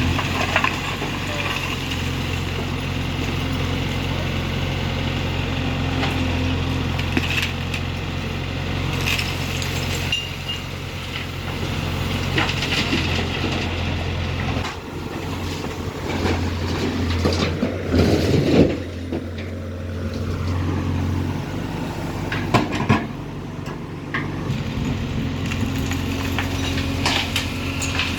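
Case backhoe loader's diesel engine running steadily under load as its bucket works through house rubble, with scattered knocks and scrapes and a louder crash of debris about two-thirds of the way through.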